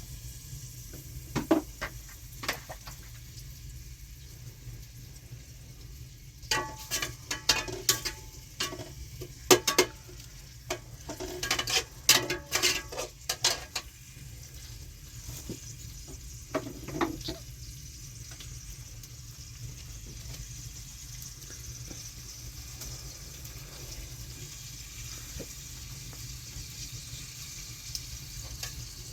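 Food sizzling in a pan, with a utensil knocking and scraping against it in clusters through the first half, then a steadier sizzle.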